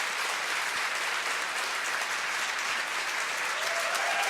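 A large crowd applauding steadily in a dense, continuous patter.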